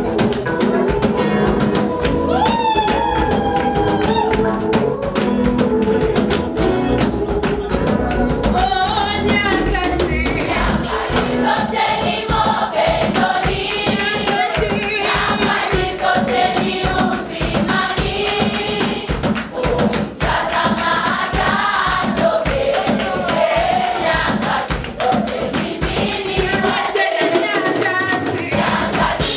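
Choir singing a gospel praise song over instrumental accompaniment with a steady beat; the bass drops out briefly near the end.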